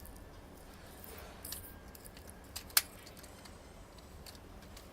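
Small plastic toy launcher and mini toy train being handled: a few light clicks and a brief rustle, with one sharp click a little under three seconds in.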